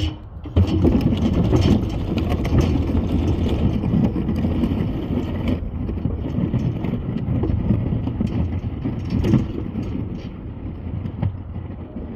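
A snow-plow truck running as it drives and works the lot, a steady engine rumble with frequent irregular knocks and clatter.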